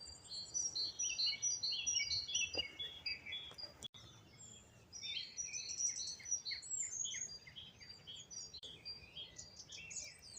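Songbirds singing: rapid, high chirping phrases in two long runs, with a short pause about four seconds in, over faint outdoor background noise.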